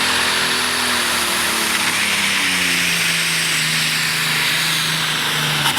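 Turbocharged super stock pulling tractor engine running hard with a high turbo whine over a loud rush of engine noise. The engine pitch drops about two seconds in, then holds steady at a lower speed.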